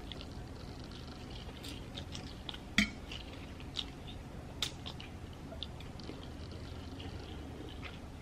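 Close-miked mouth sounds of someone eating noodles: soft, scattered chewing clicks and smacks, the loudest about three seconds in.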